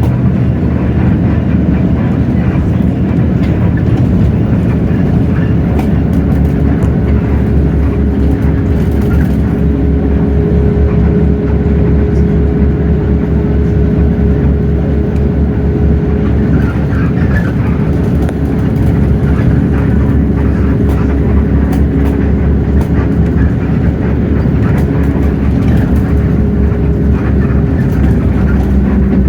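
Hino J08E-VN inline-six turbo diesel of a city bus running steadily under way, heard from inside the bus. A steady whine joins the drone about a third of the way in and holds almost to the end.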